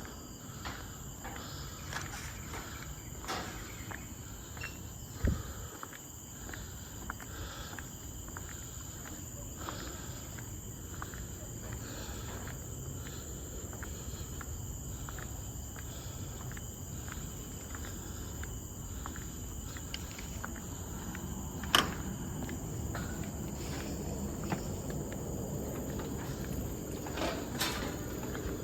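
Steady high-pitched drone of forest insects, with the walker's footsteps on the path at about two steps a second and a couple of sharper knocks later on.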